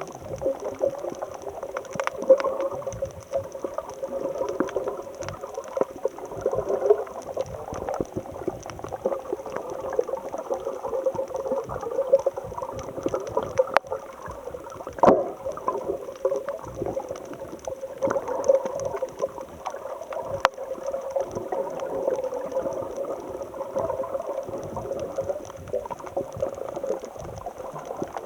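Seawater churning and bubbling close to the microphone, with many scattered sharp clicks and pops.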